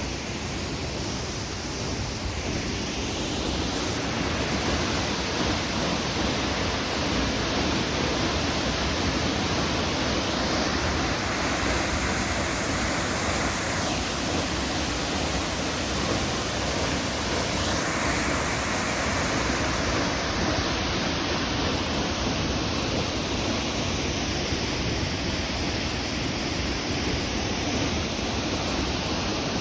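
Waterfall roaring: a steady, dense rush of falling water.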